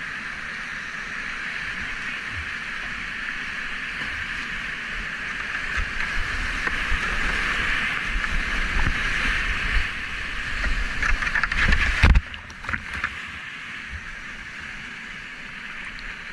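Whitewater rapids rushing steadily and growing louder toward the middle, with low buffeting on the microphone. About twelve seconds in there is a loud burst of splashing, then it settles to a quieter rush.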